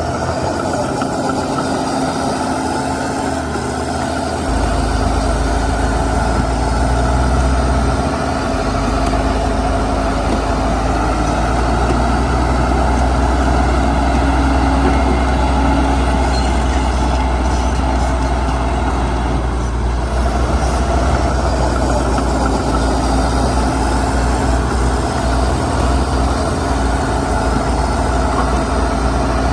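Heavy diesel earthmoving machinery running steadily under load, with a deep rumble and a constant hum. The low rumble gets heavier about four seconds in.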